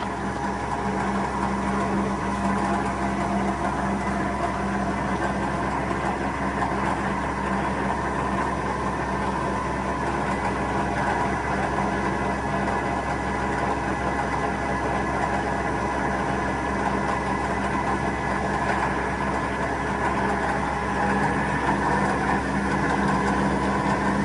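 Colchester CNC flat-bed lathe running steadily, a constant machine hum with a strong low tone and several higher steady tones, slightly louder near the end.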